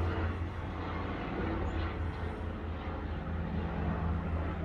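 Steady low mechanical hum, like an idling vehicle engine, with a faint even hiss above it.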